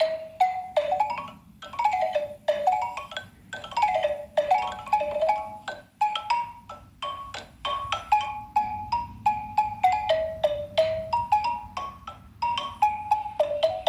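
Xylophone played with mallets: a quick melody of single struck notes, several a second, stepping up and down over a narrow high range, with short pauses between phrases.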